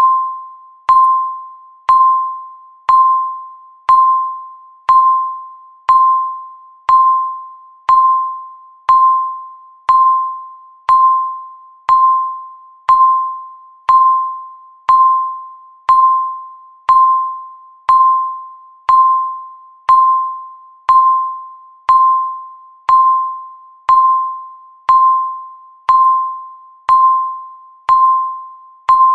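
Electronic countdown-timer beep, once every second: a single tone of about 1 kHz that starts sharply and fades away before the next, marking each second of the count.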